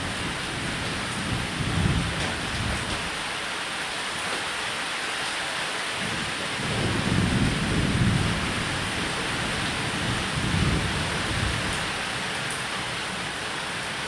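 Steady rain falling on a roof, with low rolling thunder rumbling in the background: one rumble about two seconds in, a longer one in the middle and another shortly after.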